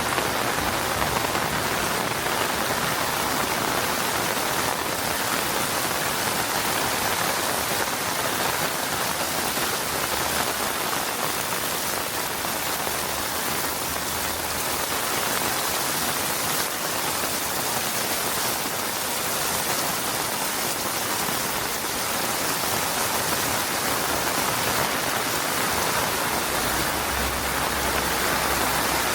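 Steady monsoon rain falling, an even hiss that holds at one level without breaks.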